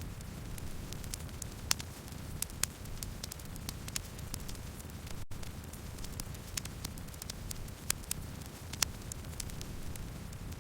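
Wood fire burning, crackling with irregular sharp snaps and pops over a steady low rumble of the flames. A split-second gap in the sound about five seconds in.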